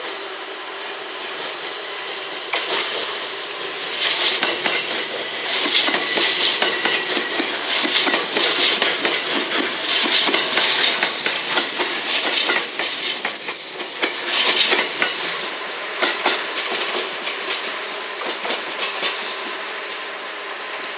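JR West 227 series electric multiple unit, a five-car set, running close past, its wheels clicking rapidly over rail joints. The clatter swells about two seconds in, is loudest as the cars go by, and eases off as the train pulls away.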